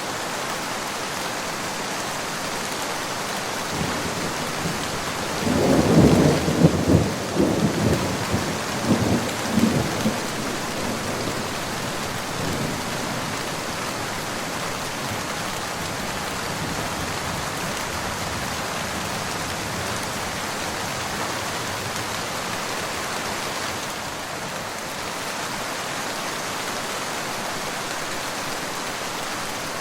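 Steady heavy rain, with a roll of thunder from about five to ten seconds in that rumbles in several rolling peaks before fading back into the rain.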